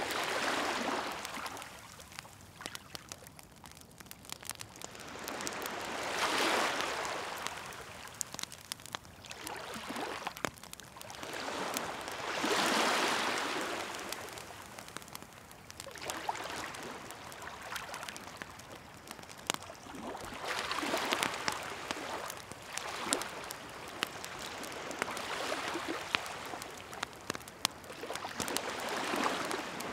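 Sea waves washing in and drawing back in slow swells every four to six seconds, with a wood fire crackling and popping in sharp little clicks throughout.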